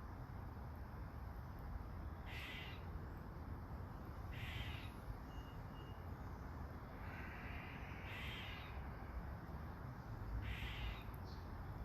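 Steady hiss of soft rain, with a bird giving short calls about every two seconds, around five times.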